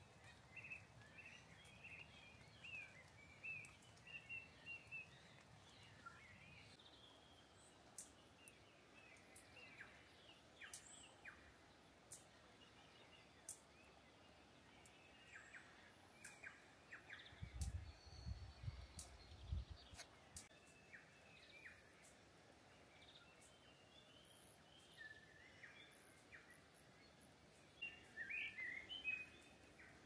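Quiet birdsong: scattered short chirps and warbled phrases from wild birds, busiest near the start and again near the end, with a brief low rumble about two-thirds of the way through.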